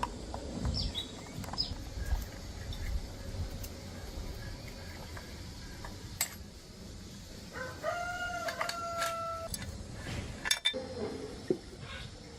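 A rooster crows once, a drawn-out call of about two seconds starting past the middle, over a low background rumble. A few sharp knocks sound around it, the loudest shortly after the crow.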